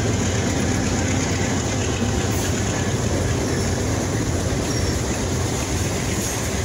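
Norfolk Southern diesel freight train passing close by: the trailing locomotive's engine running as it goes past, then covered hopper cars rolling over the rails. A steady, even noise with a deep hum underneath.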